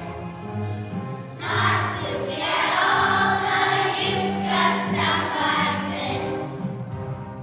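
A choir of young children singing a song together over instrumental accompaniment.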